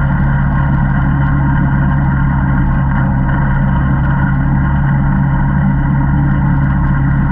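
ATV engine running at a steady, held speed, its pitch barely changing throughout.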